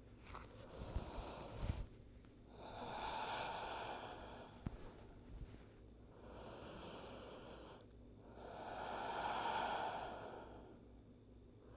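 Slow, deep breaths taken while holding a yoga pose: four long swells of breath, each lasting a couple of seconds, with short pauses between them. A few faint knocks come in the first two seconds.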